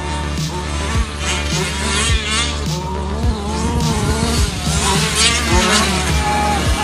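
30 Degrees North DDT 1/5-scale RC car's two-stroke petrol engine revving up and down, over background music with a steady beat.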